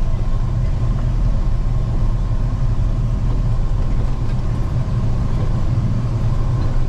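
Steady engine and road noise heard inside a box truck's cab while it is being driven: a constant low rumble with no sudden changes.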